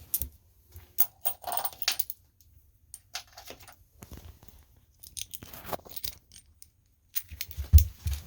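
Steel washers and a bolt being handled, giving a string of irregular small metallic clicks and jingles, one briefly ringing about a second in. A dull knock near the end is the loudest sound.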